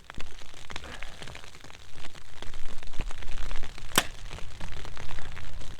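Mathews Phase 4 compound bow shot once about four seconds in, a single sharp crack. Under it, a low rumble of wind on the microphone that swells in the middle, and scattered small ticks.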